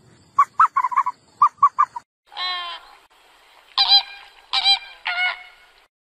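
Birds calling: quick runs of short chirping calls in the first two seconds, then a drawn-out wavering call and three separate loud honks like a goose's.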